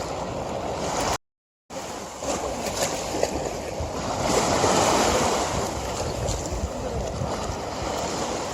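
River water rushing in a steady wash of noise that swells louder around four to five seconds in. About a second in, the sound cuts out completely for half a second.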